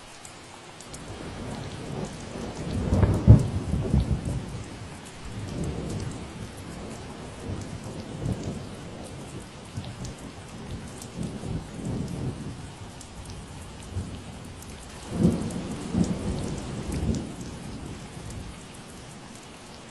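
Thunder rumbling over steady rainfall, loudest about three seconds in and again around fifteen to seventeen seconds in, then dying away.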